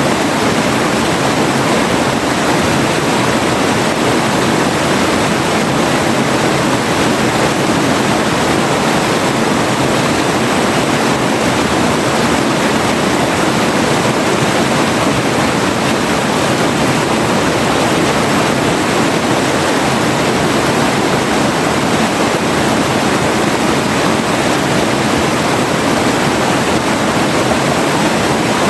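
River water rushing steadily, a dense even hiss of flowing water with no pauses.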